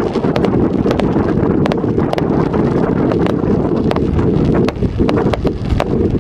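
Fireworks display: a rapid, irregular run of sharp cracks and bangs, several a second, over a heavy, steady low rumble.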